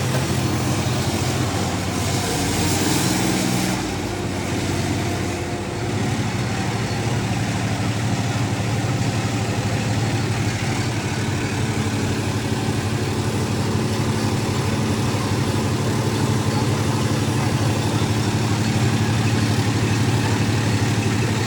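Tractor diesel engine running steadily, settling into an even idle-like hum a few seconds in.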